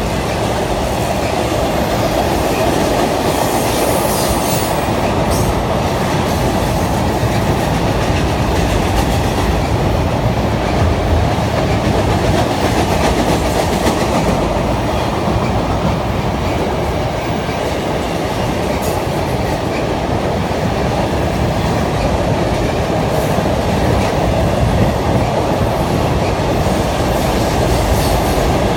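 Double-stack container cars of a freight train rolling across a steel trestle bridge: a steady, loud rumble of wheels on the rails.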